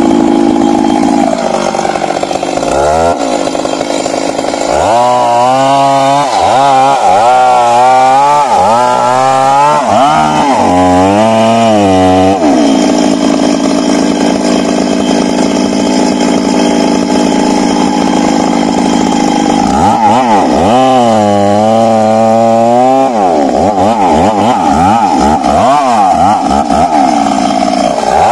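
Stihl MS 382 two-stroke chainsaw running at high revs through a cut. Long steady stretches alternate with two spells where the engine speed swings up and down several times a second, and the engine drops lower briefly near the start.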